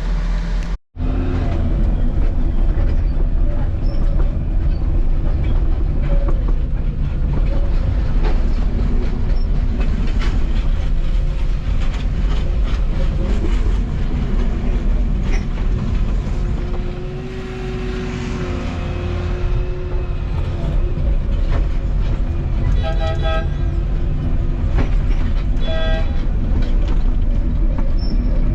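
Volvo 235EL excavator at work, its diesel engine and hydraulics running loud and steady under load. It drops out for an instant about a second in; a held whine comes in around the middle, and two short tooting tones sound near the end.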